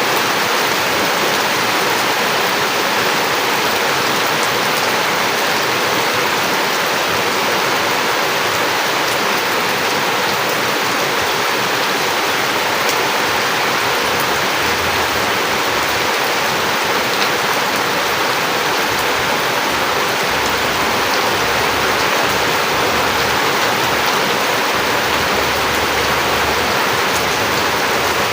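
Heavy rain falling, a steady dense hiss of water without a break.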